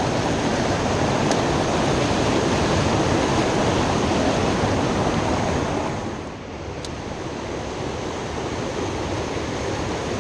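Steady rush of water from a small creek's waterfalls, easing off a little about six seconds in.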